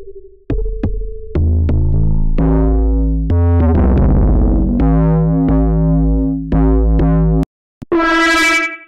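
Vital wavetable synthesizer playing bass presets: a run of sustained, buzzy pitched bass notes that change every second or so, with sharp clicks among them. The notes cut out briefly about seven and a half seconds in, and a short, brighter note follows near the end.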